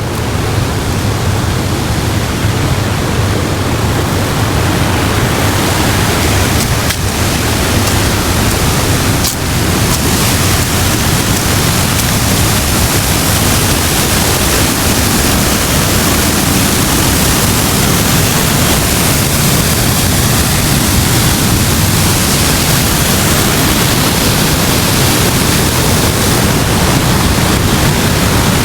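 Loud, steady rush of the Sagana River's flowing water, an even noise with no break.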